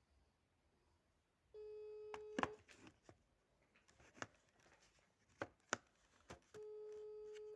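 Telephone ringback tone of an outgoing call that is ringing unanswered: a steady mid-pitched tone sounding twice, about a second each and about five seconds apart. Scattered light clicks and knocks come between the tones.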